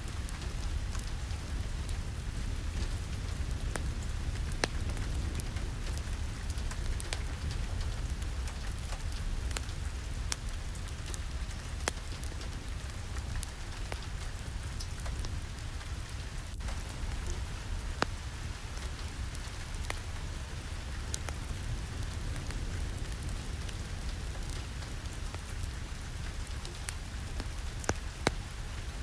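Steady rain with a low rumble, dotted with scattered sharp clicks throughout.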